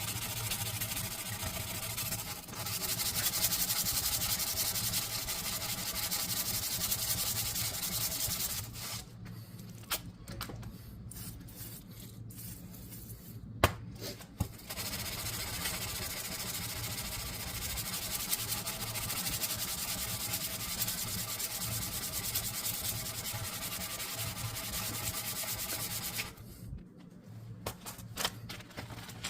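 Abrasive sanding on a forged knife, in long continuous runs of hiss broken by two pauses, with one sharp click during the first pause.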